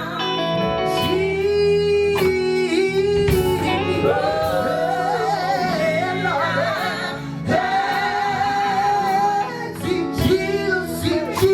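Live gospel music: a lead singer holding long, wavering notes and sliding runs over steady instrumental backing.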